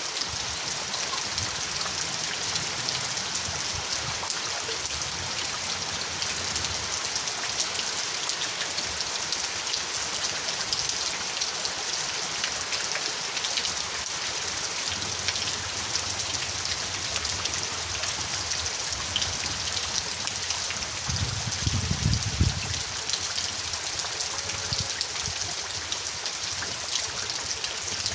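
Steady, dense rainfall pattering on surfaces, with a brief low rumble about three quarters of the way through.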